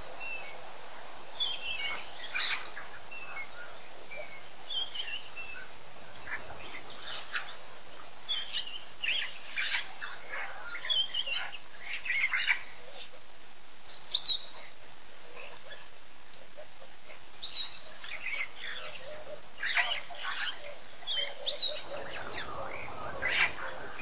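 Small birds chirping: short, scattered calls throughout, over a steady background hiss.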